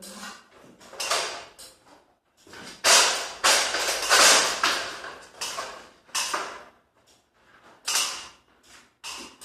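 Garage door mechanism scraping and creaking in several uneven bursts, loudest about three to five seconds in.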